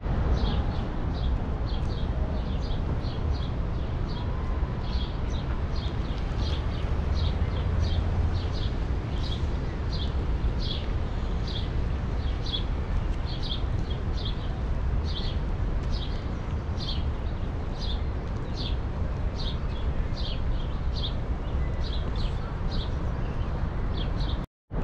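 A small bird chirping over and over, short high chirps about two a second, over a steady low outdoor rumble.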